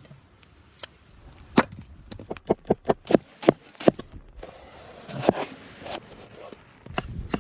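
Repeated sharp chopping strikes of a blade into wood, irregularly spaced at about one to three a second, with a short stretch of noise about five seconds in.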